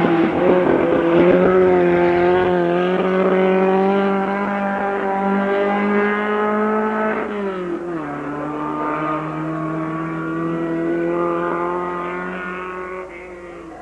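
Race car engine running hard at steady high revs; its pitch drops sharply about halfway through, then holds at the lower note and fades near the end.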